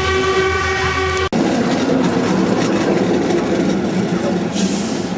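Steam locomotive whistle blowing one steady, many-toned note that stops dead about a second in, followed by the steady running noise of a moving train.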